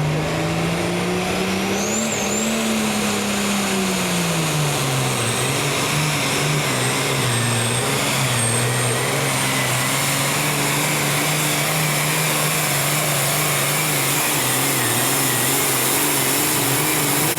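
A pulling vehicle's engine running hard under load down the pull track. Its pitch climbs over the first couple of seconds, drops back about four seconds in, and then holds steady with a slight wavering.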